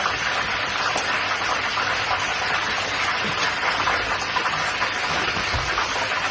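Steady sizzling hiss of food frying in hot oil in a pan.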